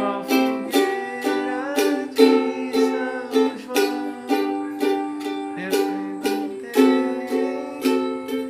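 Ukulele strummed in a steady rhythm, chords changing every second or so, each stroke sharp at the start and ringing on.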